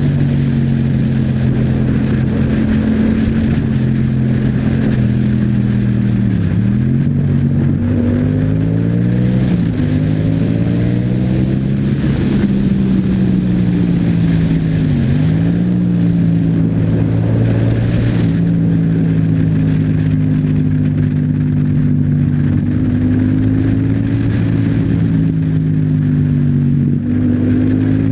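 Yamaha MT-07's parallel-twin engine running through an Akrapovič exhaust while riding, its pitch rising and falling with the throttle and gear changes. The note dips sharply and recovers about six seconds in and again around fifteen seconds, and climbs steadily for a few seconds in between as the bike accelerates.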